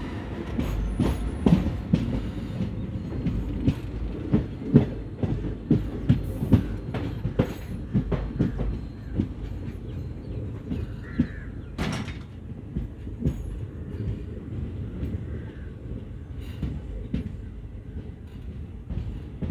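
Train wheels clacking irregularly over rail joints and points over a steady low rumble, the clacks growing sparser towards the end as the train slows to stop at a station.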